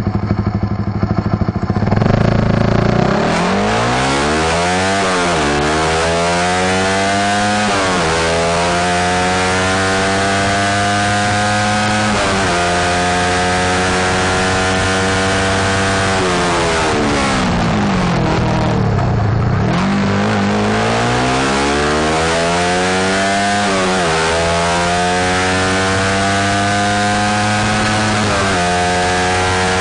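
Suzuki Satria F150 FI single-cylinder engine through an Over Racing aftermarket exhaust, accelerating hard at full throttle. The pitch climbs and drops back with each upshift, at about five, eight and twelve seconds. The engine holds high revs, eases off around seventeen to nineteen seconds, then climbs again with two more upshifts near the end.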